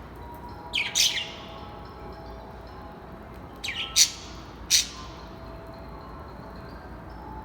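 Birds calling: a loud cluster of harsh calls that sweep downward in pitch about a second in, and three more between about three and a half and five seconds in, over faint high chirping from other birds.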